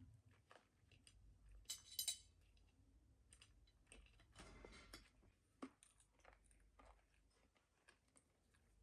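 Mostly quiet, with scattered faint clicks and small clinks; the sharpest pair comes about two seconds in.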